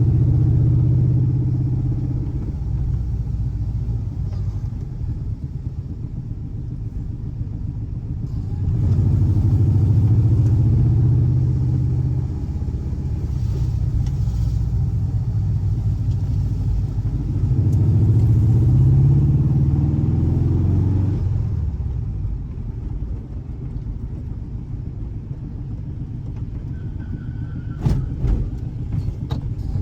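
VW Beetle's air-cooled 1584 cc flat-four boxer engine running, its low drone swelling and easing about three times as the revs rise and fall. A few sharp clicks near the end.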